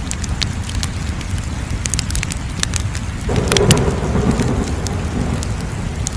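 Wood fire crackling, with sharp irregular pops over a steady low roar. About three seconds in, a louder rushing swell comes in suddenly and fades over a couple of seconds.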